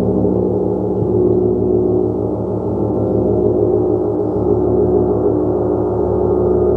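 Large gong ringing continuously in a dense, steady wash of many overlapping low tones. The low end shifts about a second in and again past four seconds as it is struck again.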